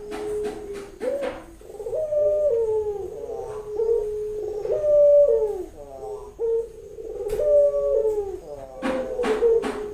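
Female Barbary dove (puter) cooing over and over in short gliding phrases: the call of a hen in heat calling for a male. A few sharp clicks cut in near the start, in the middle and near the end.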